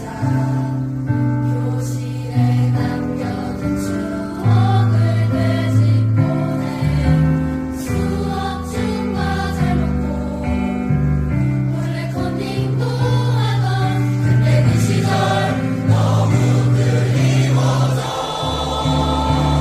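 A choir singing with instrumental accompaniment: sustained chords under wavering, held vocal lines.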